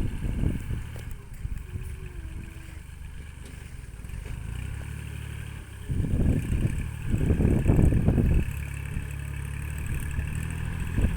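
Strong wind buffeting the microphone in rumbling gusts, heaviest from about six to eight and a half seconds in, over a steady low hum.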